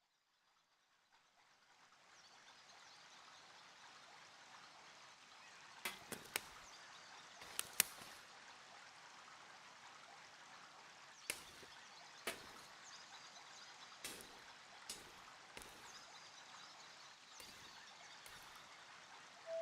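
Wood fire burning in a compact fire grill: a faint steady hiss of flames with about a dozen sharp crackling pops, fading in over the first two seconds.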